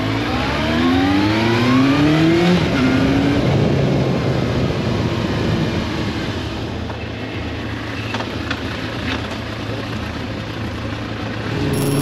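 Motorcycle engine accelerating, its pitch rising over the first couple of seconds, then running steadily at speed under constant wind and road rush.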